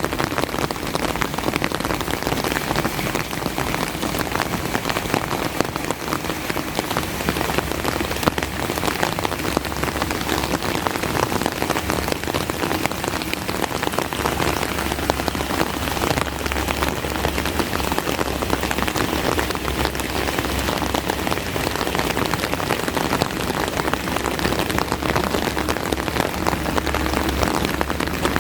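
Steady rain falling, a dense patter of drops close by. A low rumble comes in underneath about seven seconds in.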